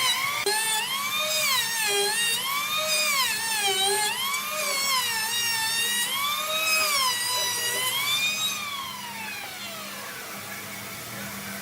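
High-pitched power tool motor running with its pitch dipping and recovering about once a second as the load on it changes, then winding down steadily after being switched off about three quarters of the way through.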